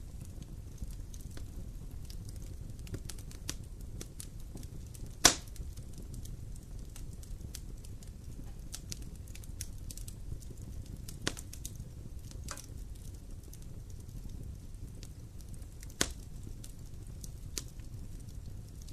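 Wood fire burning with a low steady rumble and scattered crackles, with a loud sharp pop about five seconds in and another near the end.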